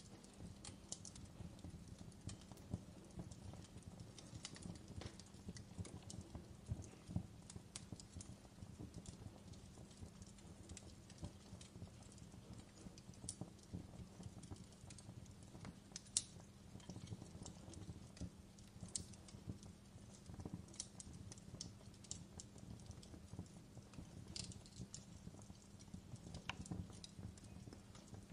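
Wood fire crackling: irregular sharp pops and snaps over a steady low rumble of burning, faint throughout.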